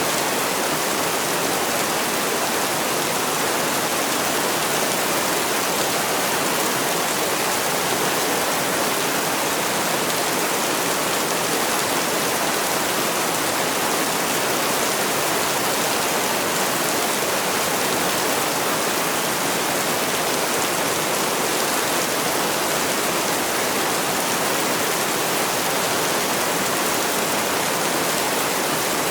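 Steady heavy rainfall: a dense, unbroken hiss of rain with no separate drops or pauses.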